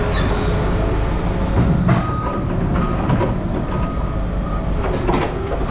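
A vehicle engine running steadily with a low rumble, with a few sharp metallic clanks and knocks about two, three and five seconds in.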